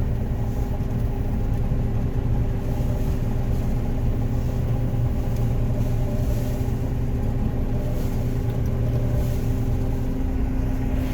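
John Deere 9500 combine running steadily under harvest load, heard from inside the cab: a constant engine and machinery drone with a steady low hum and several fainter steady tones above it.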